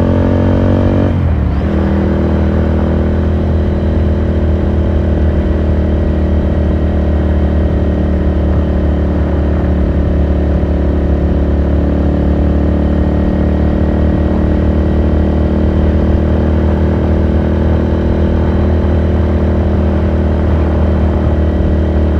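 2018 Ducati Scrambler Sixty2's air-cooled 399 cc L-twin engine under way. Its pitch is still climbing at first, drops sharply about a second in as the revs fall, then holds steady while the bike cruises.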